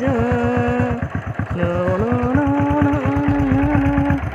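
Motorcycle engine idling through its silencer, an even throb of about ten pulses a second. Music with a sung melody plays over it.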